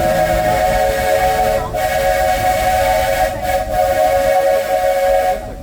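Steam locomotive's whistle on the Walt Disney World Railroad blowing one long, loud blast of a steady chord of several tones. It briefly dips twice and cuts off sharply near the end.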